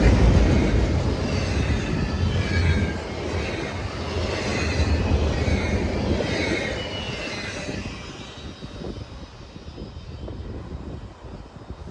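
A train rolling past and receding, with rumble and high, wavering squeals from the wheels. It fades steadily and after about eight seconds leaves only a faint low rumble.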